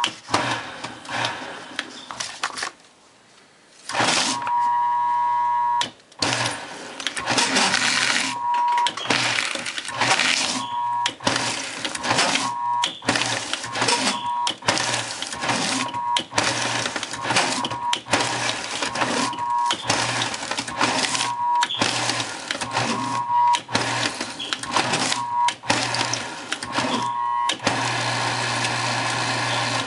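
Prime 2600 paper shredder's motor starting and stopping in short bursts about once a second, each with a whine. The shredder jams when cutting, which the owner guesses is a bearing defect. It runs steadily near the end.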